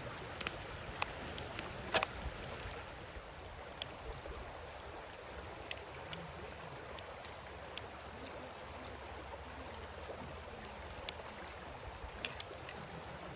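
Steady rushing of flowing water, like a stream, with scattered sharp clicks and knocks over it; the loudest knock comes about two seconds in.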